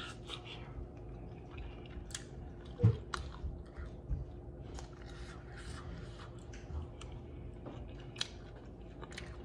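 Close-up chewing of a sauce-covered fried chicken wing, with scattered small crunches and clicks. There is one louder, short low sound about three seconds in.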